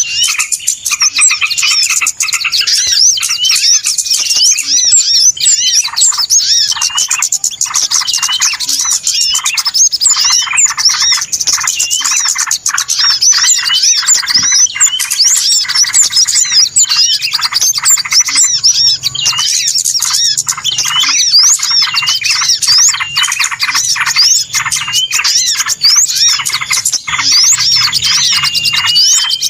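A dense, busy chorus of many small birds chirping, twittering and squawking all at once, rapid overlapping high calls without a break: a noisy bird-lure recording ('suara pikat ribut') played to attract wild birds.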